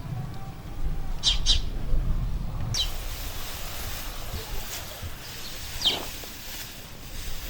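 Small birds chirping: a quick pair of high chirps, then a couple of single falling chirps, over a low rumble. A steady hiss sets in abruptly about a third of the way in.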